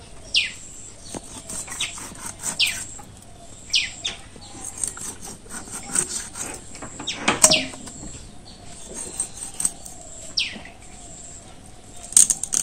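Short bird calls, each a quick falling whistle, repeat every second or two over the scraping and cracking of a river catla being scaled and cut against an upright bonti blade. The loudest crack comes a little past halfway.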